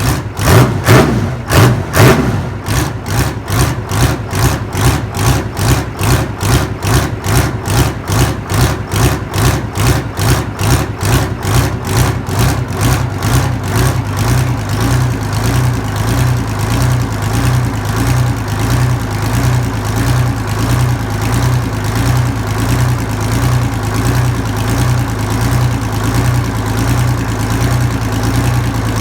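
Detroit Diesel 6V53N, a naturally aspirated two-stroke V6 diesel, running at idle after a cold start with a strong pulsing beat. The pulses are heaviest and most uneven in the first couple of seconds, and the idle becomes smoother and steadier from about halfway through.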